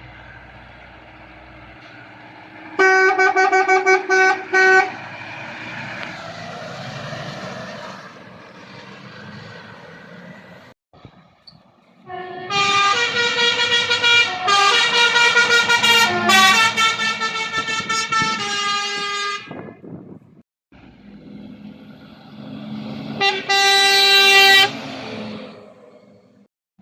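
Truck air horns sounding at the roadside: a few short blasts about three seconds in, then a long run of blasts midway whose notes change pitch several times, and one more blast near the end, over the noise of passing traffic.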